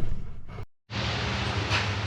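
A short knock, a brief cut to dead silence, then a steady low machine hum.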